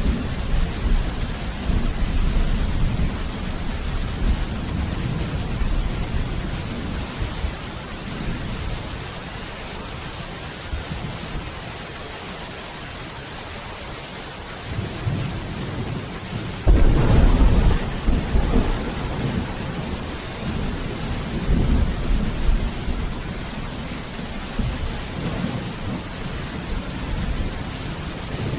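Steady rain with rolling thunder. The rumble fades about halfway through, then a sudden loud clap about two-thirds of the way in trails off into a long rumble.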